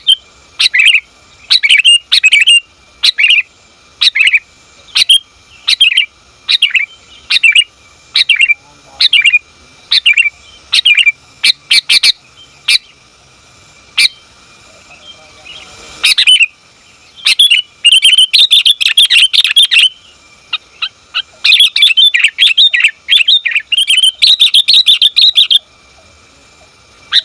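Female sooty-headed bulbul calling, a lure call used to draw males. It gives a steady run of short, high notes at about two a second, then after a pause breaks into fast, dense chattering.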